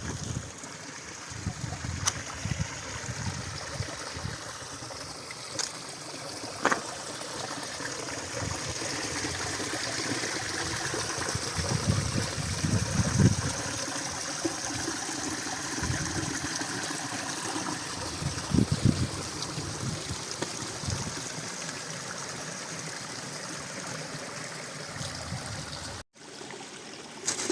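Mountain stream water running steadily, with irregular low sloshing bumps now and then and a few sharp clicks. The sound cuts out abruptly for a moment near the end.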